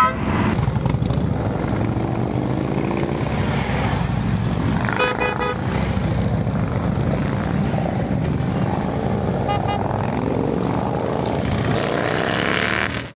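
Many motorcycle engines running together as a group of riders moves off, with a short horn toot about five seconds in and a fainter one near ten seconds. The sound cuts off suddenly at the end.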